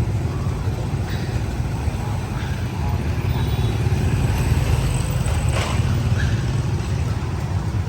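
Steady low rumble of a train running, with a brief sharp clack about five and a half seconds in.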